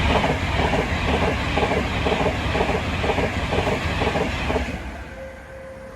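Express passenger train passing at speed, its wheels clattering in an even rhythm of about two beats a second. The clatter stops suddenly near the end as the last coach goes by, leaving a quieter fading rumble.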